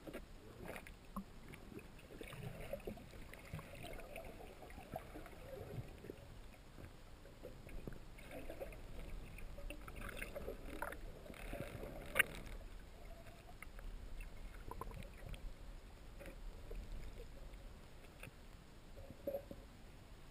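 River water sloshing and splashing irregularly, with scattered small knocks and one sharp click about twelve seconds in.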